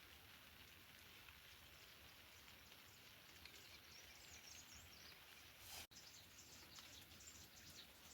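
Near silence: faint outdoor ambience with faint high chirps, likely small birds, from about halfway on. A brief hiss and then a sudden dropout come about two-thirds of the way through.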